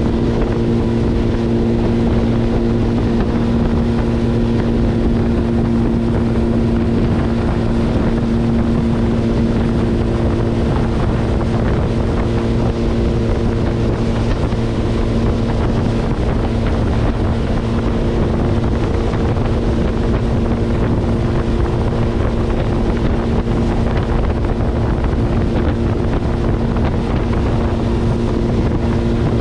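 Motorboat engine running at a steady speed, its even drone holding one pitch throughout, with wind buffeting the microphone.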